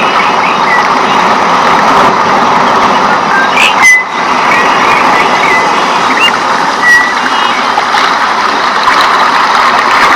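Rainforest ambience: a steady, dense hiss of rain with a few short bird chirps over it, and a brief drop-out about four seconds in.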